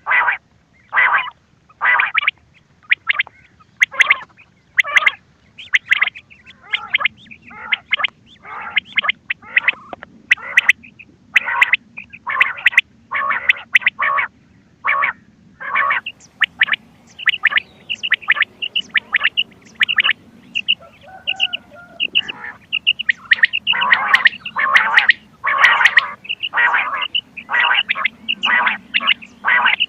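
Recorded quail calls from a hunting lure cassette: a steady run of short calls, a little more than one a second. From about halfway through, a quicker series of thin high notes joins in.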